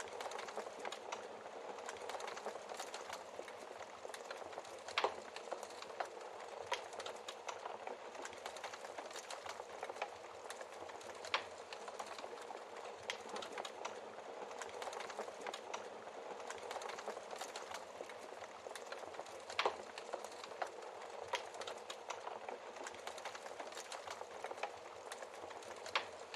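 Wood fire burning in a fireplace: steady fine crackling with a few louder, sharper pops from the logs, spaced several seconds apart.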